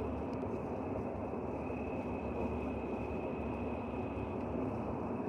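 2011 Infiniti QX56's engine running steadily, with a thin, steady high-pitched whine over the engine noise.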